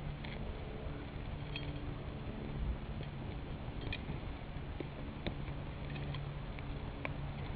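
Small wood fire of dead sticks crackling inside a Swiss Volcano camp stove, with scattered, irregular sharp pops over a steady low hum.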